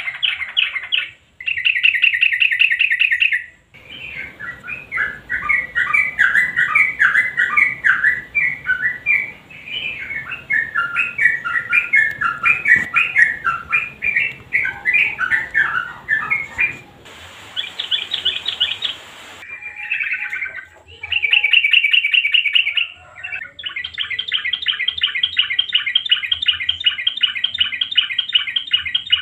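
Yellow-vented bulbul (trucukan) song in the 'nguklik' and 'garuda' styles. Short, fast rattling trills alternate with a long stretch of varied, jumbled chattering notes, and a long steady rapid trill comes near the end.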